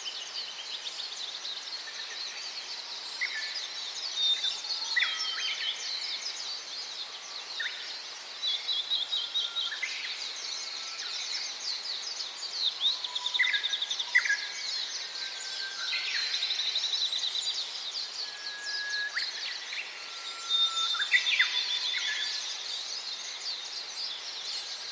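Many small birds chirping and calling together in a dense, continuous chorus of fast high chirps and trills, with short whistled notes that rise or fall sharply or hold briefly at one pitch.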